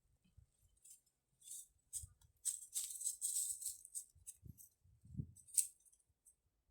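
Faint irregular rustling and crackling of dry leaves, bark and twigs, with a few soft low thuds, as someone clambers into a hollow tree.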